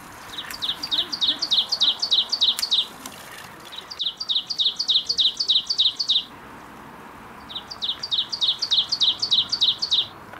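A songbird singing three bouts of fast, evenly repeated high chirps, about six notes a second, each bout lasting about two seconds, with short pauses between.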